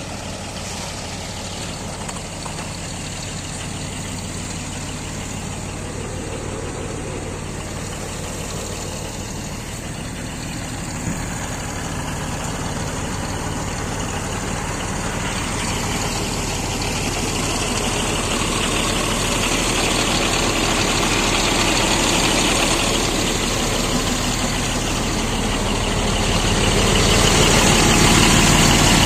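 Scania P420 truck's inline-six diesel engine idling steadily, getting gradually louder through the clip.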